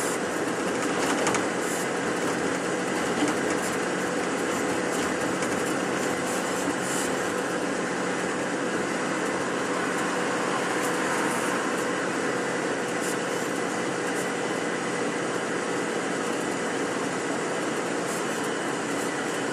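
Steady engine and road noise of a moving bus, heard inside its cabin, with a faint steady hum and a few light rattles.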